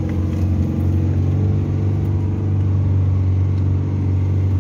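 Isuzu 3-litre diesel engine running steadily under load, heard from inside the cab as the vehicle pulls along a thick-sand track. A constant low engine drone with no clear change in revs.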